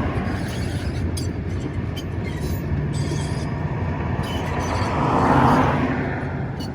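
Sugar cane train running on narrow-gauge cane tramway track: a steady rolling rumble and rattle with a few clanks, swelling louder about five seconds in.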